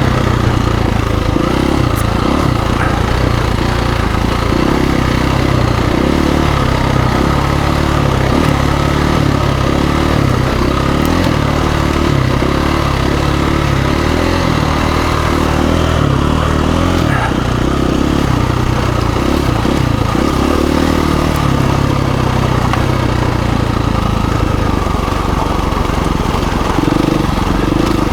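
2017 KTM 350 EXC-F dirt bike's single-cylinder four-stroke engine running under load while ridden off-road, its revs rising and falling.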